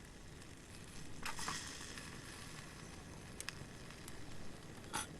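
Steak and vegetables sizzling on a grill over a dying campfire, with a steady hiss, a louder stretch about a second in, and a few sharp pops from the burning wood.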